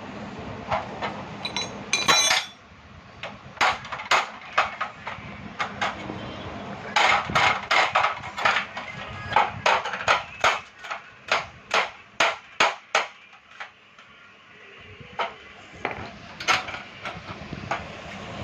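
A hand tool knocking and tapping on metal gas stove parts: sharp knocks, a brief ringing clatter about two seconds in, then a quick run of taps at two or three a second through the middle, with a few more near the end.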